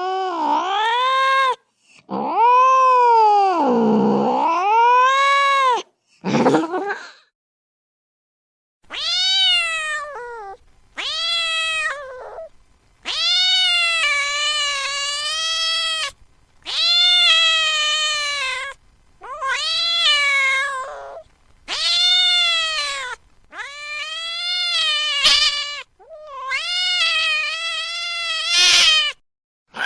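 A domestic cat crying with long, wailing meows, about a dozen in a row. Each call rises and falls in pitch and cuts off sharply before the next, with a longer pause about seven seconds in.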